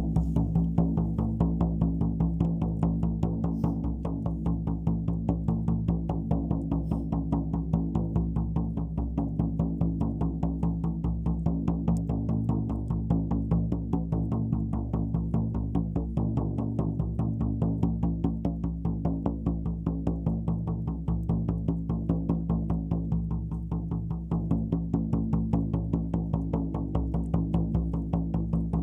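Shaman's frame drum (buben) beaten in a fast, steady, even rhythm, its low skin ringing on under the strokes: shamanic ritual drumming.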